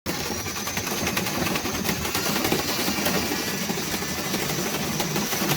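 Power drill running steadily, spinning a dryer-vent cleaning brush on its rod inside the duct as it is worked back and forth through the tubing. A thin high whine sits over a dense, steady rushing noise.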